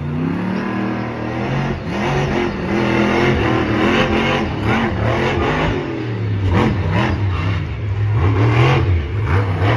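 Monster truck engine revving hard again and again, its pitch rising and falling repeatedly.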